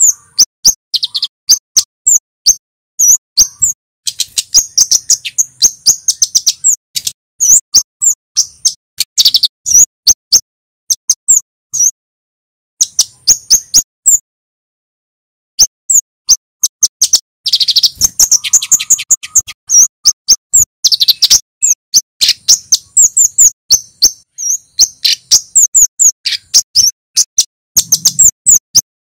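Male kemade flowerpecker singing: rapid runs of sharp, high chirps coming in quick bursts, with a silent pause of about a second near the middle.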